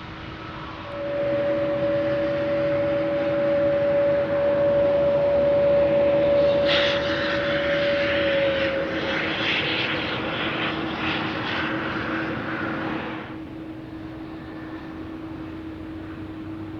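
Airliner engines running, with a steady high whine from about a second in, joined midway by a loud rushing roar that cuts off abruptly about 13 seconds in.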